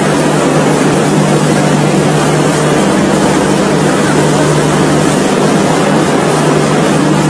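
Indian Railways passenger coaches rolling past: a steady, loud running noise with a low steady hum.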